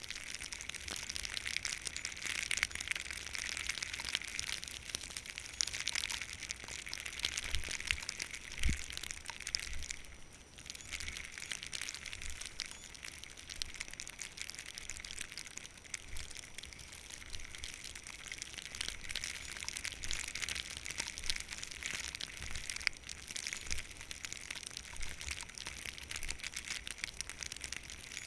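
Skis hissing and scraping over snow on a downhill run, with wind buffeting the microphone in low, uneven gusts. The snow noise drops away briefly about ten seconds in.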